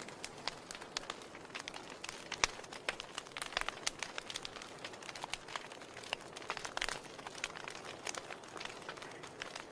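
Wood fire burning in a fireplace: irregular sharp crackles and pops over a soft steady hiss of flame.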